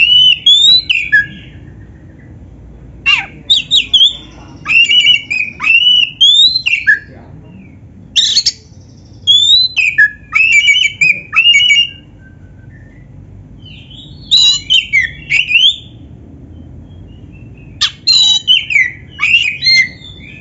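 Oriental magpie-robin (black-breasted kacer) singing loud bouts of quick whistled and squawky notes that sweep up and down. The song is filled with mimicry of canary phrases. The bouts come about five times, with pauses of one to three seconds between them.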